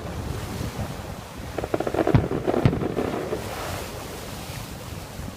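Fireworks going off: a quick run of cracks and pops with two louder bangs a little after two seconds in, then a fizzing crackle, over steady wind noise on the microphone.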